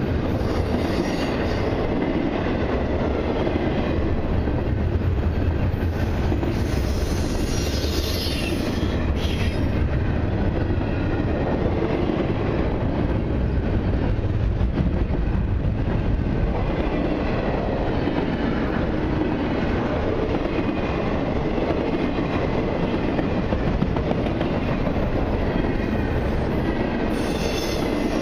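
A long freight train of intermodal cars rolling past at speed, with a steady rumble of wheels on rail. High wheel squeal rises briefly at the start, again about a quarter of the way in, and near the end.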